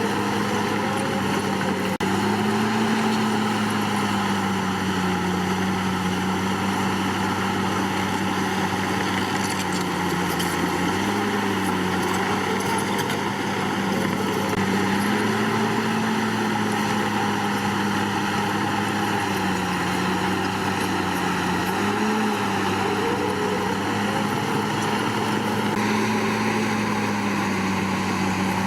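Komatsu D61PX bulldozer's diesel engine running steadily under working load, its pitch rising and sagging gently every few seconds as the load on the blade changes.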